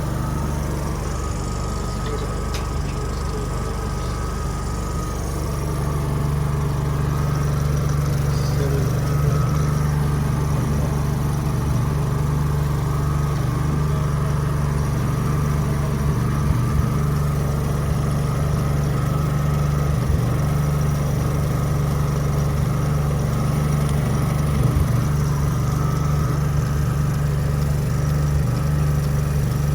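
Generator engine running steadily, a continuous low drone that grows louder about six seconds in and then holds.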